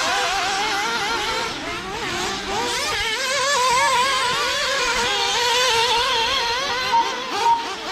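Several 1/8-scale RC racing buggies running together, their small engines revving up and down with overlapping, wavering pitches.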